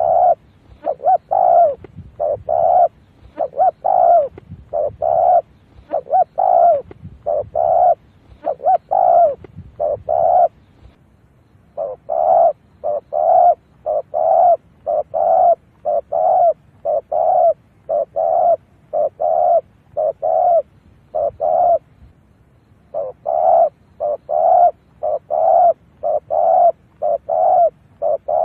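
Spotted dove cooing over and over, short hoarse coo notes about two a second in long phrases with brief pauses between them. It is a decoy bird's call used to lure wild spotted doves.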